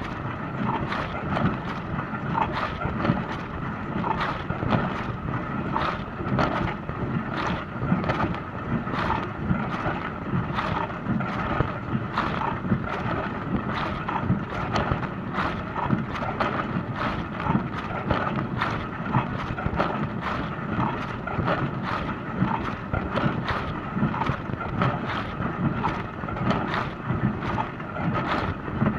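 Dishwasher running a wash cycle: a steady churn of water sprayed against the dishes and the inside of the tub, with a quick irregular patter of splashes throughout.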